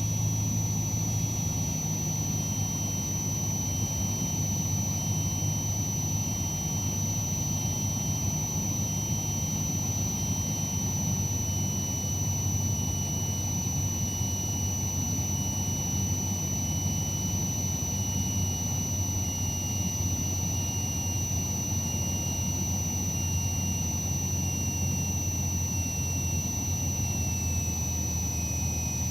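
Cessna 152's four-cylinder Lycoming engine and propeller droning steadily, heard inside the cabin, with a steady high-pitched electrical whine over it and a fainter whine that slowly drops in pitch.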